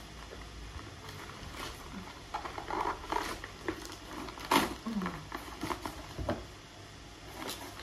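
Packaging being opened and handled: irregular rustling with small clicks and crackles.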